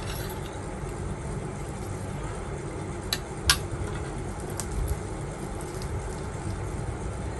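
Two sharp clinks of tableware during eating, about three seconds and three and a half seconds in, with a fainter one a second later, over a steady low background rumble.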